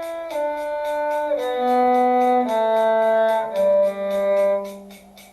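A bowed string instrument playing a slow shifting exercise: held single notes stepping downward one after another, about a second each, over a steady clicking beat. The last, lowest note fades out about two thirds of the way through.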